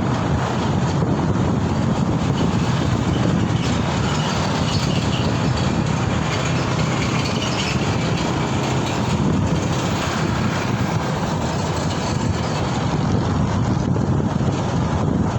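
Steady rush of wind and road noise from riding a motorcycle through traffic, with no single event standing out.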